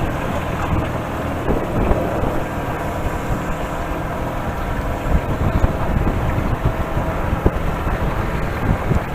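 Wind buffeting the microphone, a steady rumbling, fluttering noise.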